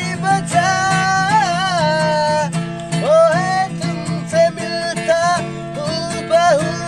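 Acoustic guitar strummed while a voice sings a wordless, sliding melody line over the chords.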